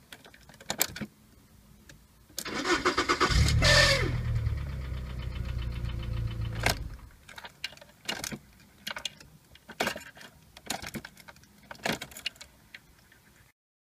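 Volkswagen car engine cranked on the starter and catching, running for about three and a half seconds before it stops. Scattered sharp clicks follow.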